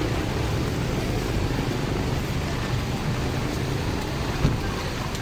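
Steady low rumbling noise, like wind buffeting the microphone in a rainstorm, with a single short thump about four and a half seconds in.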